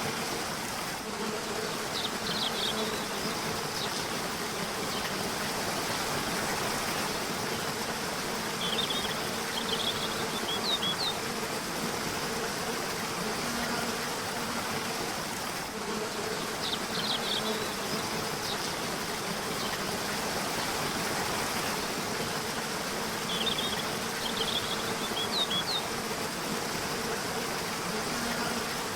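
Steady rush of a river or waterfall, with a low steady buzz under it and short bursts of high bird chirps four times.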